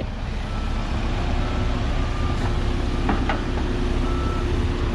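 A heavy diesel engine runs steadily at low revs while a backup alarm gives faint, short beeps about once a second.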